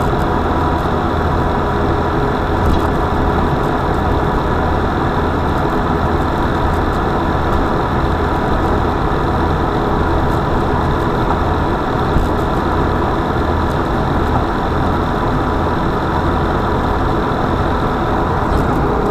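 Vehicle engine running steadily with a low hum.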